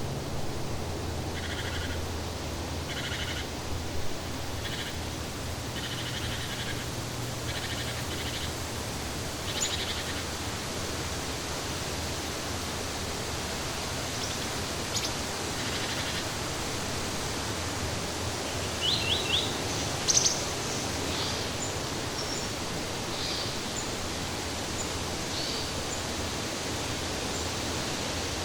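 Birds chirping and calling in short, scattered phrases, including a quick run of calls about two-thirds of the way through, over a steady, even outdoor hiss.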